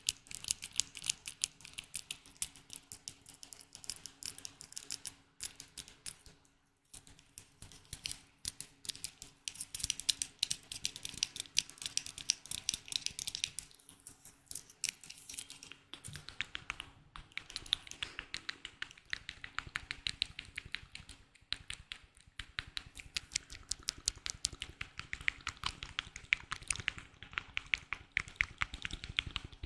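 Close-up ASMR tapping: fast, crisp fingertip or fingernail taps and clicks on a hard object, many a second, with a few short pauses.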